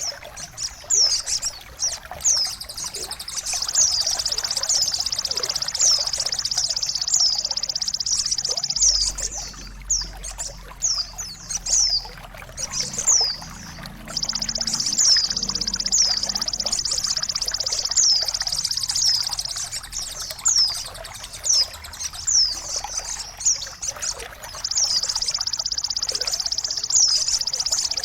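Birdsong tutor recording for caged songbirds: short high chirps that each drop in pitch, repeated every half second to a second, over a steady high buzzing trill, with trickling water beneath.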